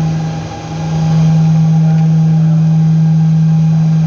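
Loud steady mechanical hum with one strong low tone, dipping briefly about half a second in.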